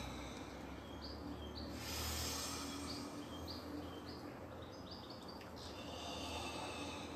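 A small bird chirping repeatedly in short high notes over a steady low rumble of outdoor background noise, with a brief rush of noise about two seconds in.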